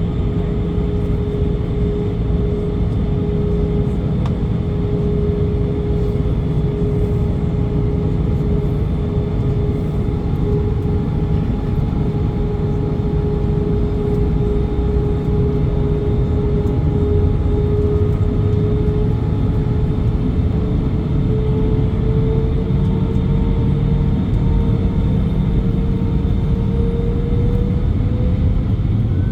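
Cabin noise of an Airbus A320 at takeoff thrust, heard from a seat over the wing: a loud, steady jet-engine rumble with a steady whine. The whine starts to rise in pitch a few seconds before the end.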